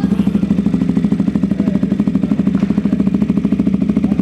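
KTM motorcycle engine idling steadily, with an even, rapid pulsing.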